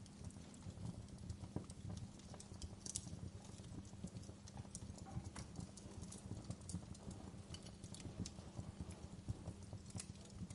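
Wood fire burning low in a fireplace, crackling steadily with irregular small pops and snaps, several a second, over a faint low rumble.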